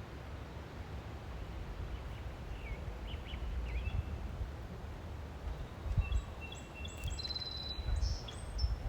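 Small birds chirping outdoors over a steady low rumble, with a few short chirps a few seconds in and a longer songbird phrase with a quick trill near the end.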